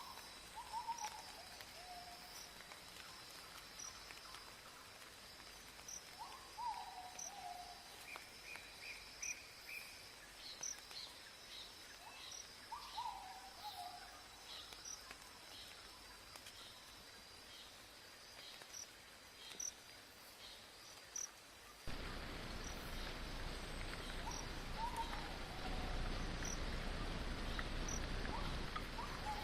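Tropical forest ambience: insects keep up a steady high drone with regular chirps, and a bird repeats a short falling call about every six seconds, with a brief run of quick higher notes about eight seconds in. About 22 seconds in, a steady hiss cuts in abruptly and carries on under the calls.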